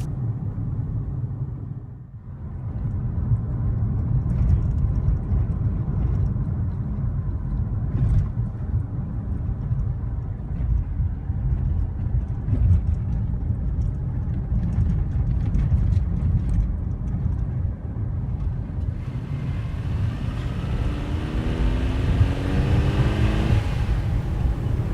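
Low, steady rumble of a car driving, engine and road noise, with a brief dip about two seconds in. Over the last few seconds a hiss builds and a tone climbs steadily in pitch.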